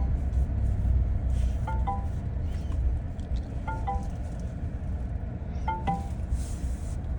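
A short two-note chime, high note then lower note, repeating about every two seconds over a steady low rumble.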